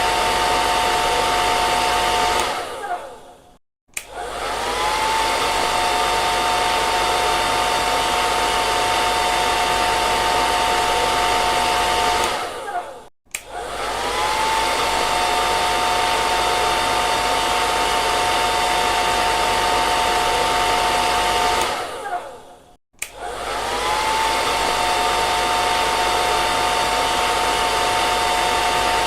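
Electric hair dryer blowing steadily, a loud rush of air with a high motor whine. Three times the sound dies away to silence and then spins back up, the whine rising in pitch as the motor comes back to speed.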